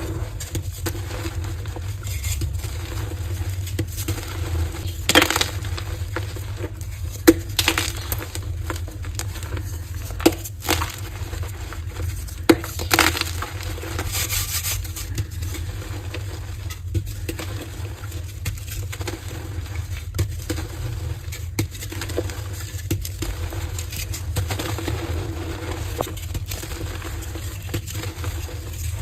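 Colourful gym chalk hearts being crushed and crumbled: a continuous run of small crunches and crackles with several sharper snaps, the loudest a few seconds in and again around the middle. A steady low hum lies underneath.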